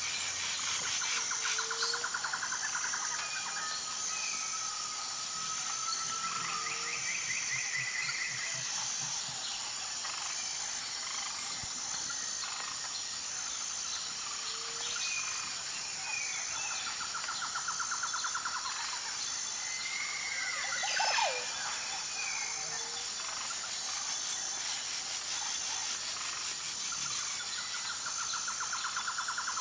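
Forest ambience: a steady high insect drone with an even pulse, under scattered short whistled bird calls. There are repeated rapid pulsed trills and one sharp falling whistle about two-thirds of the way through.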